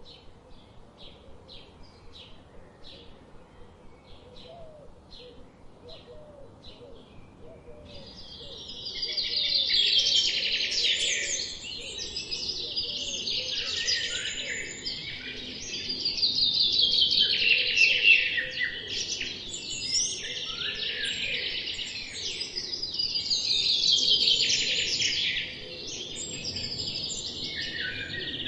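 Songbird calling: short high chirps repeated about twice a second, then from about eight seconds in, loud rapid song in three long bouts a few seconds apart.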